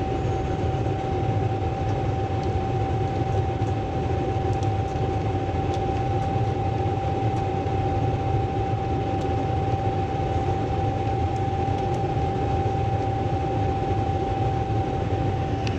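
Furnace and humidifier equipment running steadily: a constant low hum and broad machine noise, with a steady high whine held throughout.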